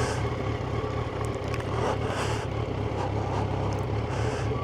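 Yamaha FZ1's inline-four engine idling steadily, with a short high hiss about every two seconds.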